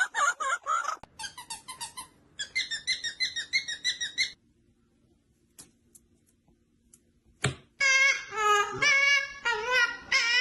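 Birds calling in quick runs of short, pitched chirps, then a pause of about three seconds. After that come louder, longer calls that bend up and down in pitch.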